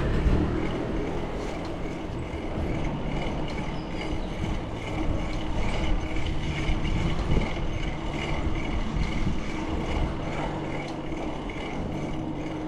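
Bicycle on the move: steady tyre and wind rumble, with a light regular ticking about twice a second.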